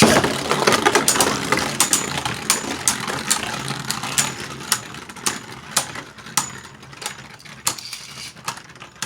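Two Beyblade Burst spinning tops, Guardian Kerbeaus and Blizzard Gainon, whirring in a plastic stadium, with sharp clacks as they collide and knock against the stadium wall. Loudest at the start; the clashes grow sparser and quieter toward the end as the tops lose spin.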